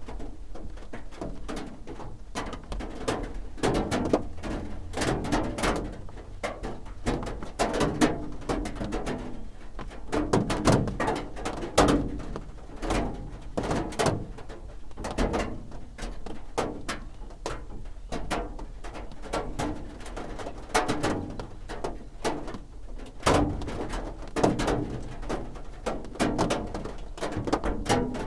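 Raindrops drumming on a roof, falling as irregular sharp taps, some louder and closer than others, over a low steady hum.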